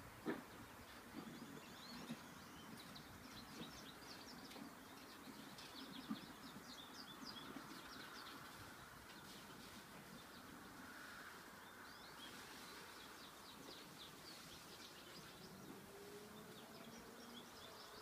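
Faint outdoor quiet with small birds chirping again and again, and a couple of light knocks in the first few seconds.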